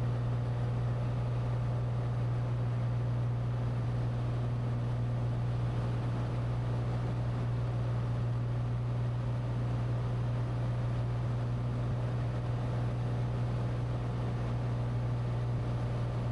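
Cessna 182T's six-cylinder Lycoming IO-540 engine and propeller droning steadily in flight, heard from inside the cabin as a constant low hum with no change in pitch.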